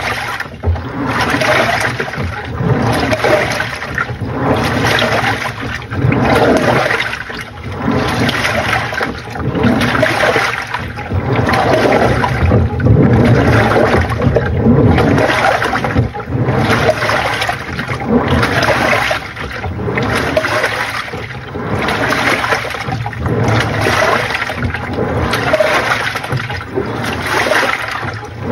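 Panasonic NA-FA80H8 top-loading washing machine agitating its load: water sloshing and churning in even surges about once a second as the pulsator turns back and forth.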